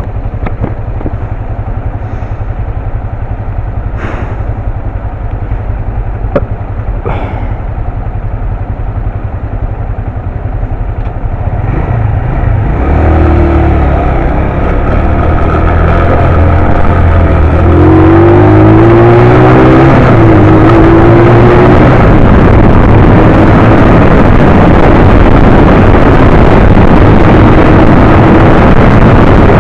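125cc motorcycle engine ticking over, then about twelve seconds in pulling away and accelerating, its pitch rising and dropping at the gear changes. From about eighteen seconds in, wind rushing over the microphone at road speed covers most of the engine.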